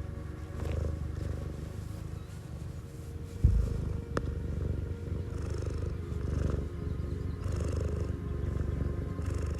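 Domestic cat purring steadily, a low continuous rumble, with a single low thump about three and a half seconds in.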